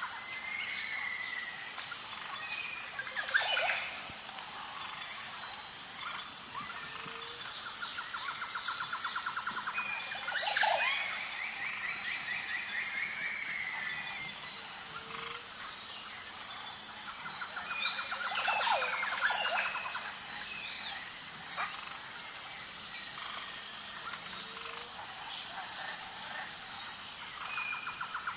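Nature ambience: a steady high insect drone under bird calls, with a rapid trill, short chirps and a few louder sweeping calls. The same set of calls comes round about every nine seconds, like a looped recording.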